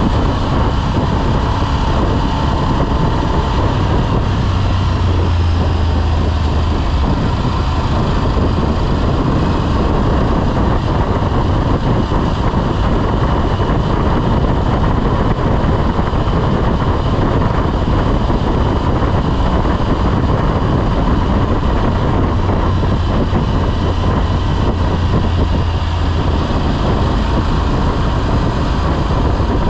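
Motorcycle running steadily on the road, its engine drone mixed with wind and road noise rushing past the microphone; the low engine note swells twice.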